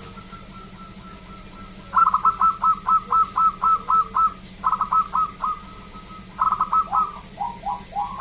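Zebra dove (perkutut) cooing. A faint held note gives way, about two seconds in, to a quick run of short, falling coos, about four a second, broken by brief pauses into three phrases.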